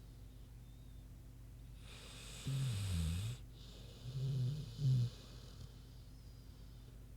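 American Bulldog snoring in her sleep: one low snore with breathy hiss about two and a half seconds in, then a two-part snore about a second later.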